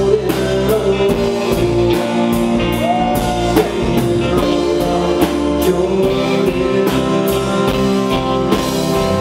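Live rock band playing an instrumental break over a steady drum beat, with an electric lead guitar bending notes.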